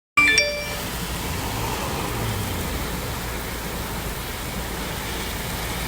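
Heavy rain falling as a steady, even hiss, with a short pitched tone at the very start.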